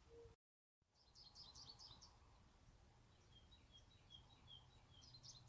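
Faint songbird chirps and twitters: a quick cluster of high chirps about a second in, a run of short repeated notes at about four or five a second, and another chirp cluster near the end.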